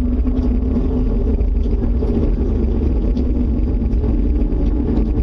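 Steady low rumble with a droning hum held at one pitch, unbroken throughout.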